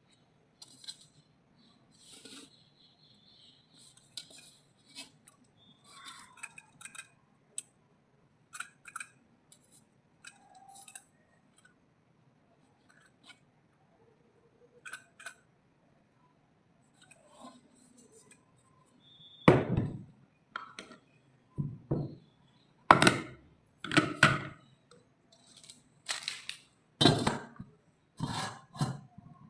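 Kitchenware being handled: scattered light clinks and taps, then a run of louder, sharper knocks and clatter over the last ten seconds.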